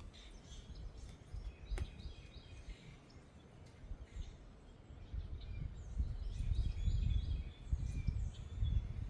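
Wind rumbling on the microphone in gusts, stronger in the second half, while small birds chirp and twitter. There is a single sharp click about two seconds in.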